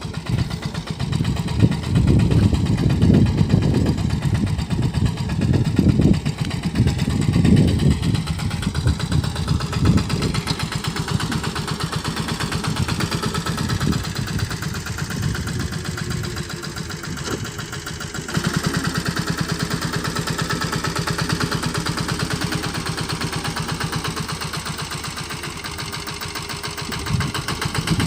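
Sanedo three-wheeled mini tractor's engine running while sowing mustard seed, with a rapid, even beat. It is heavier and more uneven over the first several seconds, then settles, growing slightly louder a little past halfway.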